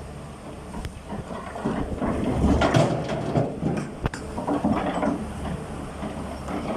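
Excavator's diesel engine running steadily while stones are loaded; for a few seconds in the middle a louder, rough clattering and rumbling of rock, with scattered knocks, rises over the engine and then eases off.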